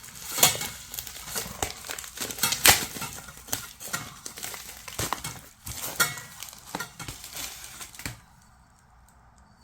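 Rustling and crinkling of packaging with scattered metallic clicks and clinks as a sheet-steel tent stove and its parts are handled and unwrapped. It stops about eight seconds in.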